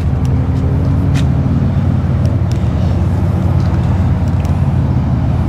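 Cummins diesel engine of a 1991 International haul truck idling steadily, a low, even rumble.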